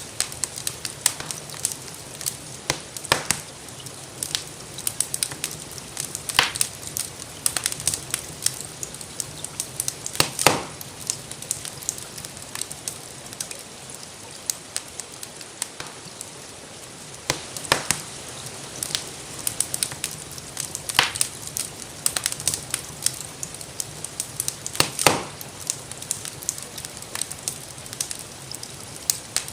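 Wood fire crackling in a fireplace: a constant patter of small pops with a louder snap every few seconds, over a steady hiss of rain.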